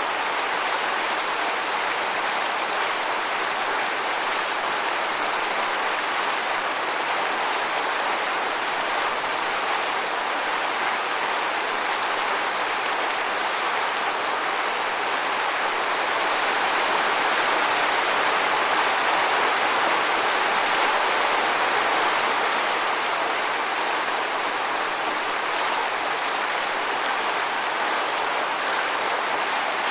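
Waterfall: water falling and splashing in a steady rush, swelling slightly about halfway through.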